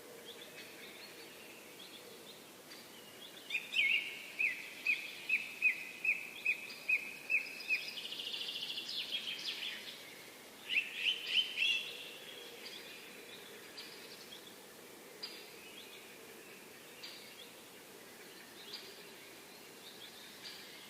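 Birdsong: a bird repeats about a dozen short falling notes, a little over two a second, then runs into a fast higher trill, then gives another short burst of notes. Scattered faint chirps follow over a steady background hum of outdoor noise.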